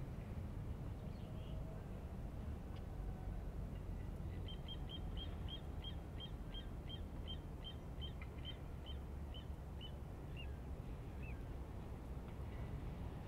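A bird calling a run of about twenty short high notes, roughly three a second, starting about four seconds in and slowing and trailing off near the end, over a steady low rumble.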